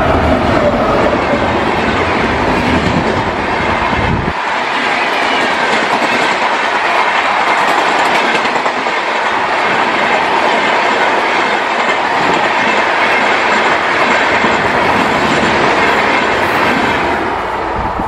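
WAP-7 electric locomotive and its express train passing close by at speed. A deep low rumble drops away suddenly about four seconds in, leaving the steady rush and clickety-clack of the coaches' wheels on the rails, which fades near the end as the train goes away.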